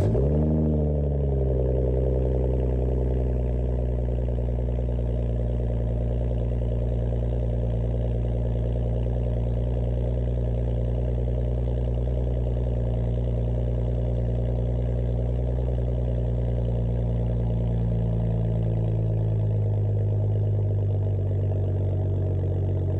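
BMW 335xi's N55 turbocharged inline-six, warm, starting through a muffler-delete exhaust with quad tips: it catches with a brief rev flare and then settles into a steady idle. The idle note shifts slightly lower near the end.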